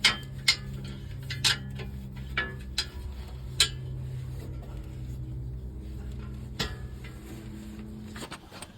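Scattered metal clinks and knocks, roughly one every second or so, over a steady low machine hum that stops near the end.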